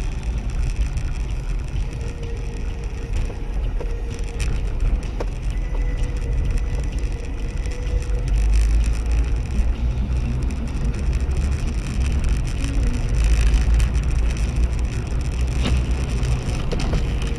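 Steady low rumble of a car driving, engine and tyre noise picked up by a dash cam inside the cabin, with no sharp impacts.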